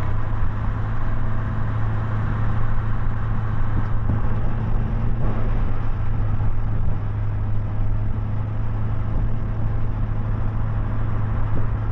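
Car engine and road noise heard from inside the cabin while climbing a mountain road, a steady drone with a strong low hum.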